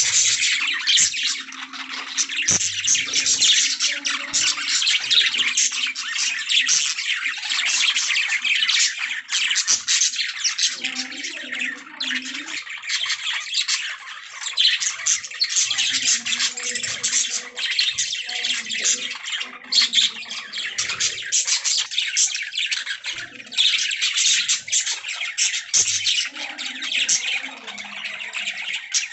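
Budgerigars chirping and warbling continuously, with many rapid overlapping chirps and squawks.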